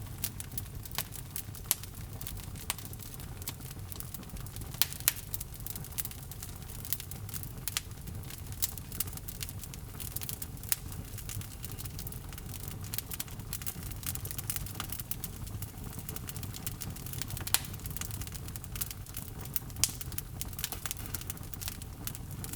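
Log fire in a fireplace crackling, with a steady low rumble of the flames and irregular sharp pops and snaps of the burning wood, a few louder pops scattered through.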